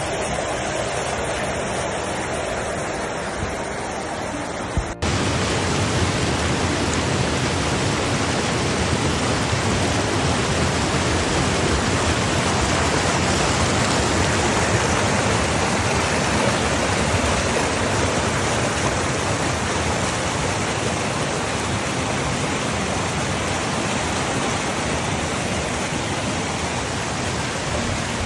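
Heavy rain pouring down in a dense, steady rushing hiss; the sound jumps abruptly to a louder, brighter downpour about five seconds in.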